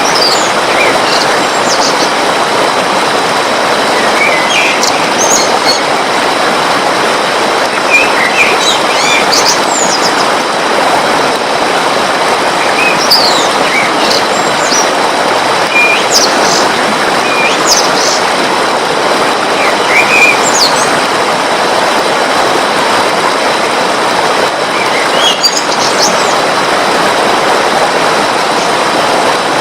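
Steady rushing water runs throughout, with scattered short bird chirps and quick whistled calls above it.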